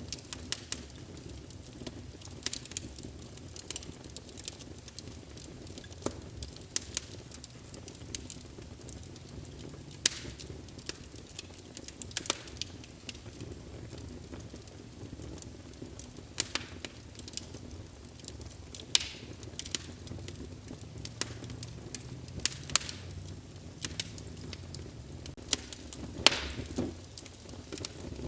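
Wood fire burning in a fireplace, crackling with irregular sharp pops over a steady low rumble of flame; a few pops stand out louder than the rest.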